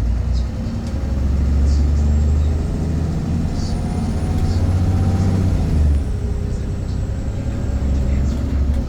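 VDL Pulsar bus running under way: a deep engine drone that rises in pitch through the middle and falls back near the end, with a faint high whine above it and a few light clicks.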